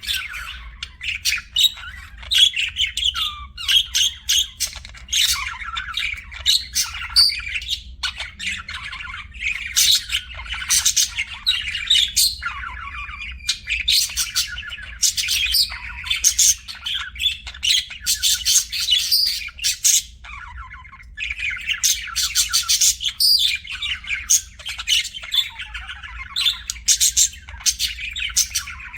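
Budgerigars chirping and warbling in a dense, continuous chatter of short high calls and squawks, with brief lulls about twelve seconds in and again around twenty seconds in.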